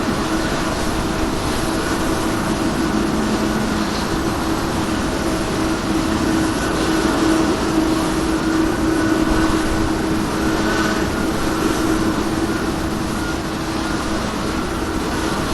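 Boeing 777-200ER's Pratt & Whitney turbofan engines running steadily, a continuous rushing hum with several steady whining tones over it.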